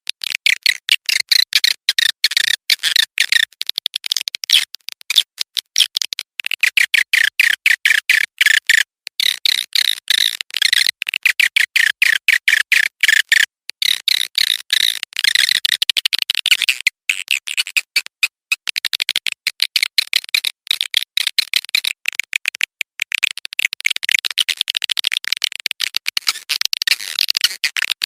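Swiftlet calling sound, a lure recording of walet birds: rapid, high-pitched twittering chirps in dense runs broken by brief pauses.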